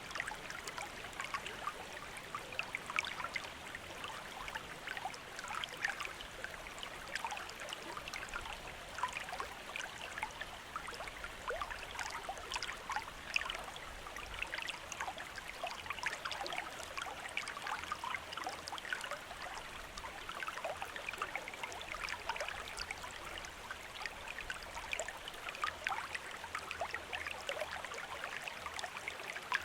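A shallow stream running steadily over rocks, with continuous babbling and many small splashes and trickles.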